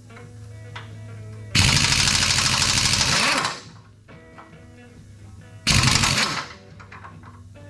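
Impact wrench hammering on a stubborn bolt in two bursts, the first about two seconds long, the second under a second, over faint background music.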